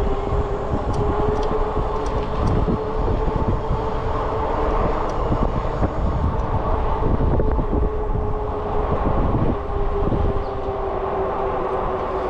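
Riding noise from an e-bike under way: wind buffeting the microphone and tyres on the road, with a steady hum throughout.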